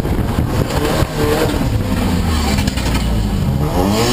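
Drift car's engine heard from inside the cabin. The revs drop and hang low, then climb sharply near the end, over a steady rush of road and wind noise.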